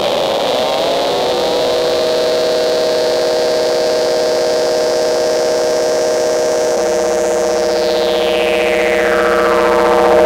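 Intellijel Rubicon 2 and Morgasmatron modular synthesizer patch holding a steady buzzy drone. Overtones glide and settle in the first couple of seconds, the tone changes about two-thirds of the way in, and then a high sweep falls steadily in pitch over the last few seconds.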